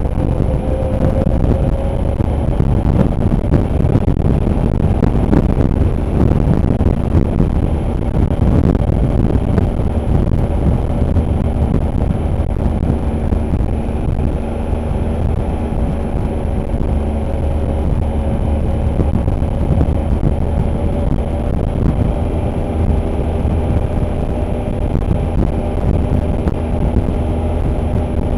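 Motorcycle engine running steadily while riding, its note drifting slightly up and down with speed, under a constant rush of wind on the microphone.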